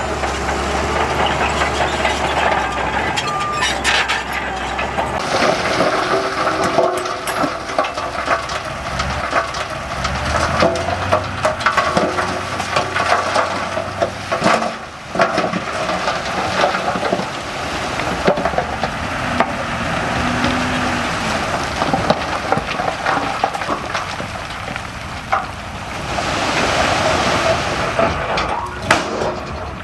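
Heavy earthmoving on a fill site: loose soil and stones crackling and crunching as they slide and are shifted, over the low hum of a diesel machine that is strongest in the first few seconds.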